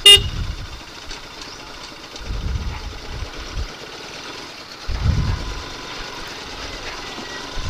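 Motorcycle engine running at low speed, with low rumbling swells twice. A short, sharp click or beep right at the start.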